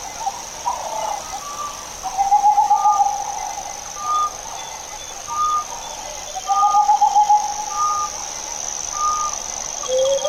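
Wild birds calling: one repeats a short clear note about once a second, while a lower, rapid trilled call comes twice. Under them runs a steady high-pitched insect drone.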